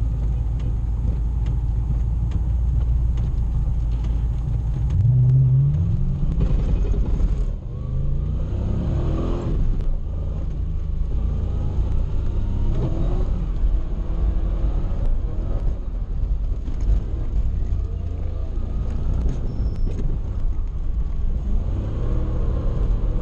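Toyota 1UZ V8 engine swapped into a Nissan 240SX, heard from inside the cabin, running under load and revving up and down repeatedly as the car is driven. A sharp rise in revs comes about five seconds in.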